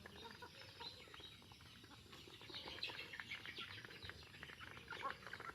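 Newly hatched Sindhi cross chicks peeping: many short, high chirps overlapping, getting busier about halfway through.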